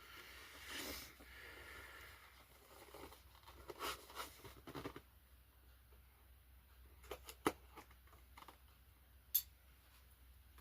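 Faint rustling of packaging and snips of scissors cutting into a wrapped box, with a few sharp clicks later on.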